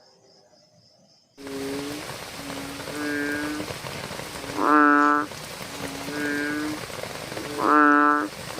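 A faint high insect trill, then about a second and a half in a sudden switch to a steady rain-like hiss with a frog croaking over it again and again. The croaks are short and pitched, softer ones alternating with two much louder ones.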